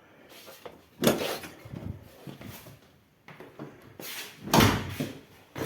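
A few knocks and thuds, as of something being handled or moved. The loudest comes about four and a half seconds in, after a sharp one about a second in.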